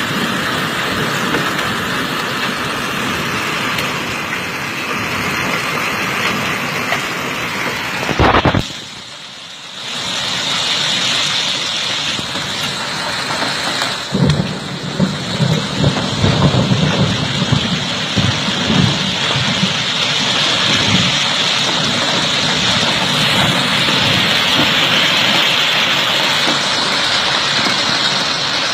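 Hail and rain pelting down: a dense, steady hiss of impacts. About eight seconds in there is a short loud knock, and the sound drops away for a second or two. From about fourteen seconds on, irregular heavier thuds join the hiss.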